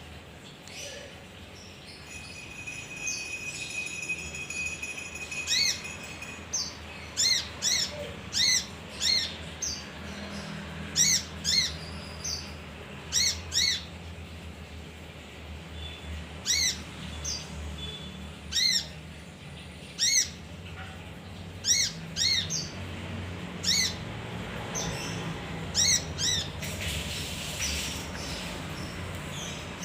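Male kinoi songbird calling: short, sharp repeated notes, often in quick pairs, coming every second or so, after a held whistle a few seconds in. A brief burst of hiss comes near the end.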